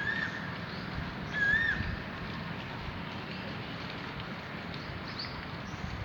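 Asian koel calling twice, a short note that swoops up and then falls, the second about a second and a half after the first. A steady hiss of rain runs underneath.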